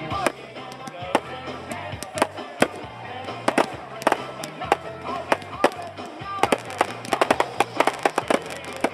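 Fireworks going off in a series of sharp bangs, spaced out at first and then a rapid crackling volley from about six and a half seconds in, with music playing underneath.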